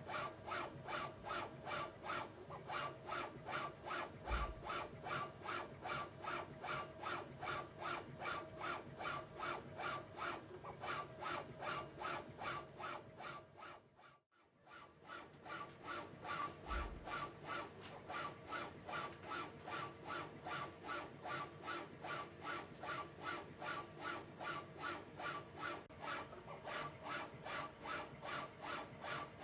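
CNC-driven hobby lathe broaching: the tool scrapes back and forth through the metal in quick, even strokes, about three a second. The strokes stop briefly about halfway through, then carry on, with a low thump twice.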